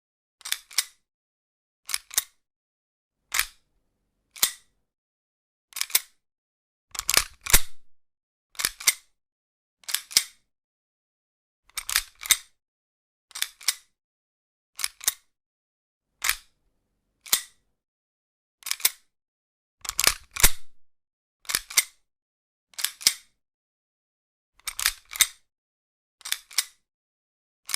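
Pistol cocking sounds: sharp metallic clicks, one or two at a time, repeating about every second or so with silence between.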